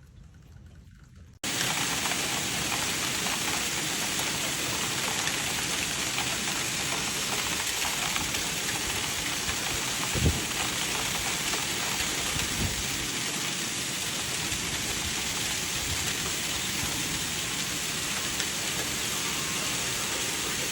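Heavy rain pouring steadily, cutting in suddenly about a second and a half in, with two brief low thumps midway.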